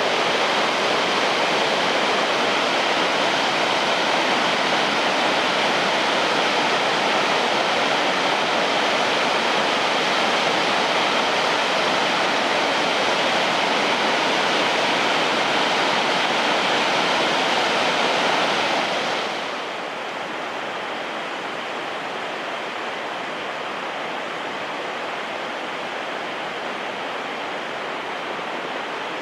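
Shirahige Falls rushing steadily, water pouring into the river below. About 19 seconds in, it suddenly becomes quieter and duller.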